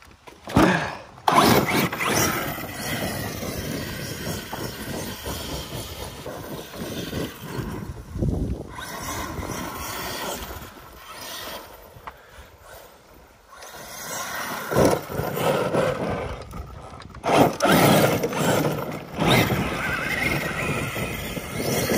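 Arrma Kraton 8S 1/5-scale electric RC monster truck driving hard: its brushless motor whines, rising and falling in pitch with the throttle, over rushing tyre noise. There are several loud surges, about a second in and again near the end.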